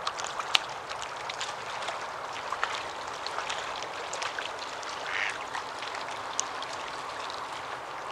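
Duck calling, with a raspy quack about five seconds in, over a steady outdoor hiss scattered with short high ticks.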